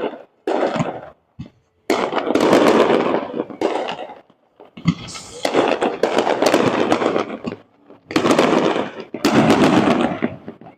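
Fireworks going off in rapid volleys of bursts and crackle. They come in waves of about one to three seconds with brief gaps between, typical of a show's finale.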